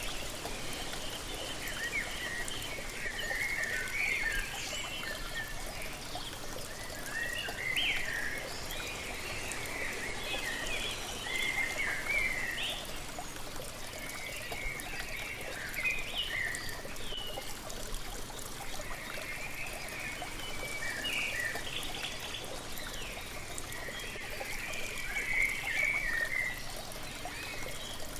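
Steady rush of falling water from a waterfall, with birds chirping and singing in short phrases throughout.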